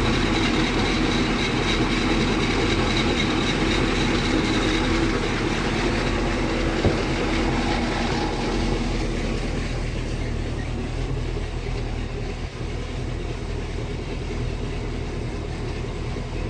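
MerCruiser 7.4L 454 big-block V8 marine engine idling steadily, warmed up at a slightly raised idle. There is one brief click about seven seconds in, and from about halfway through the sound grows a little duller and quieter.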